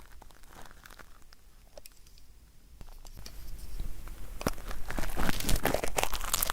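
Ear-cleaning tool scraping and crackling inside an ASMR ear microphone. A few faint ticks at first, then the scratching builds about halfway through into dense, close crackles.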